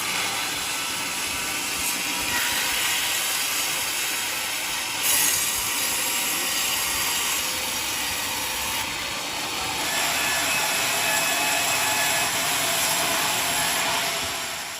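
Sawmill blade cutting through a mahogany log: a steady, loud mechanical sawing noise that shifts in tone a few times, with a brief louder surge about five seconds in.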